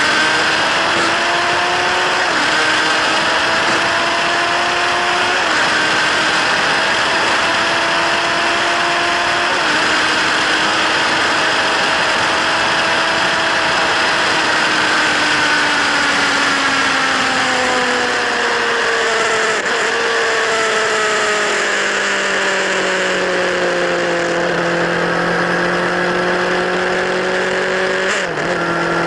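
Kawasaki Z1000's inline-four engine through LeoVince slip-on silencers, under way: the note climbs gently and dips briefly at gear changes about two, five and nine seconds in. It then falls away slowly and settles to a steady lower note.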